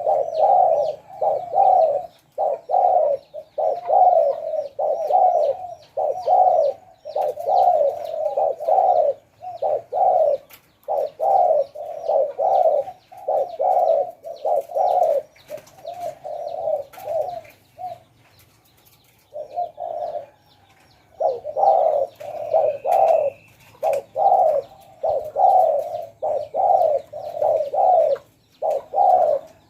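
Spotted dove cooing, a steady run of repeated low coo notes that breaks off for a few seconds past the middle, then resumes.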